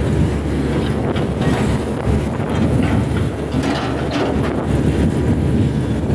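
Hitachi hydraulic excavator's diesel engine running under load, a steady low rumble with repeated short knocks and clanks from the machine at work.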